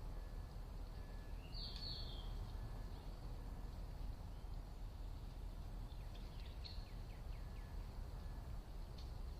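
Wild birds calling over a steady low rumble: one short falling call about two seconds in, then a quick series of falling chirps around six to seven seconds in.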